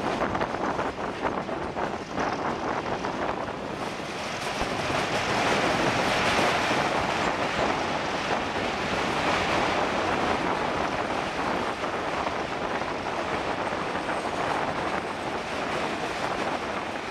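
Metre-gauge passenger train running, heard from an open coach window: a steady rumble and rattle of wheels and coaches, with wind buffeting the microphone.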